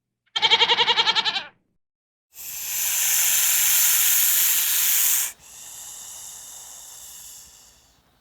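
An animal bleats once, a quavering call about a second long. Then a loud hiss lasts about three seconds, dropping to a quieter hiss that fades near the end.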